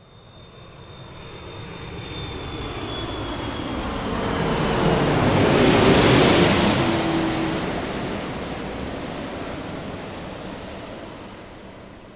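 An airplane passing overhead. Its noise swells to a peak about halfway through and then fades away, with a whine and a lower hum dropping in pitch as it goes by.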